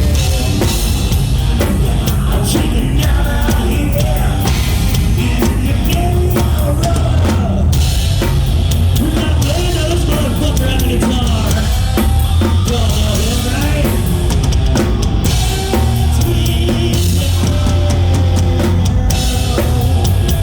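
Live rock band playing loud with electric guitars, bass and a full drum kit, with sung vocals over it.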